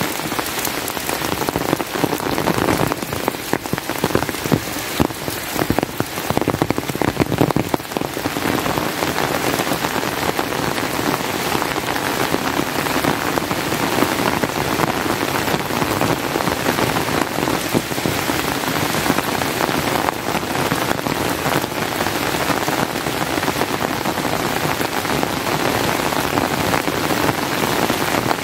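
Rain falling steadily. For the first several seconds many separate close drop hits stand out; after that it settles into a denser, even hiss.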